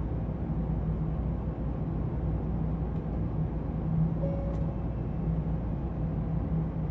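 Steady low hum and rumble of a Nozomi shinkansen train, with a brief higher tone about four seconds in.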